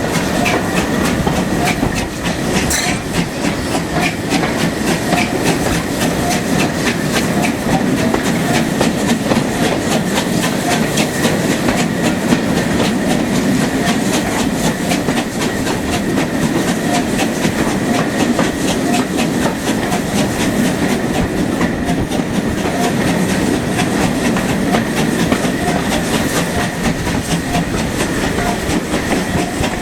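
Passenger train hauled by a steam locomotive, heard from on board while running: a steady rumble with the wheels clicking over rail joints.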